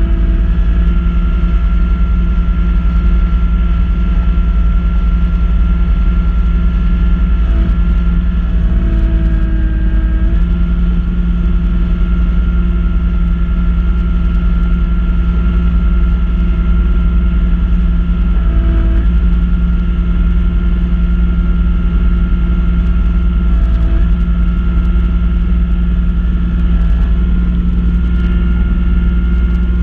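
Kubota B2650 compact tractor's three-cylinder diesel engine running steadily at working speed, driving a front-mount snow blower. Its pitch dips and shifts briefly several times.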